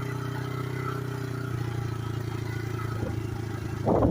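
The small single-cylinder engine of a pit bike converted to a three-wheeler, running at low, steady revs. A louder rattle comes just before the end.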